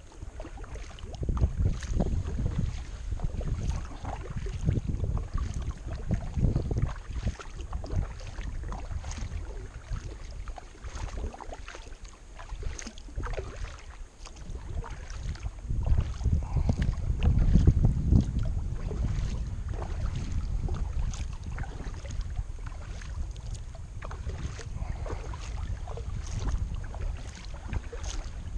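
Kayak paddling: the paddle blades dip and splash in the water with irregular small clicks and drips, over a low rumble of wind buffeting the microphone that swells twice.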